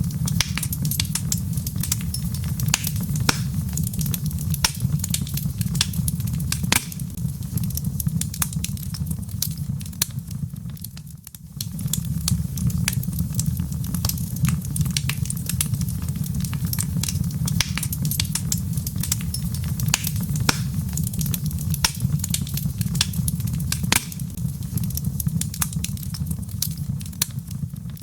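Wood fire burning in a fireplace: logs crackling with frequent sharp pops over a steady low rumble of the flames. The sound dips briefly about eleven seconds in.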